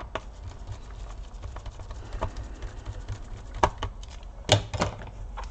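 Handling noise of hard plastic and metal objects on a workbench: scattered light clicks and taps, with a few sharper knocks about three and a half to five seconds in.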